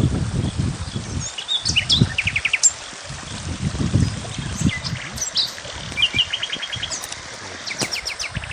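Small birds chirping and singing in quick runs of short notes, including a fast trill of repeated notes about six seconds in, over an irregular low rumble.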